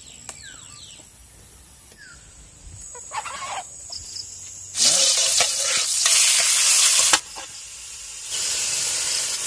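Chicken pieces sizzling as they are stir-fried in a wok, a steady hiss from about eight seconds in, after a louder hissing stretch in the middle that cuts off suddenly. A few short falling chicken calls in the first two seconds.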